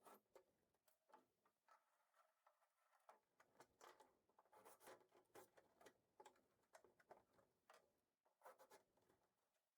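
Faint, irregular clicking and scratching.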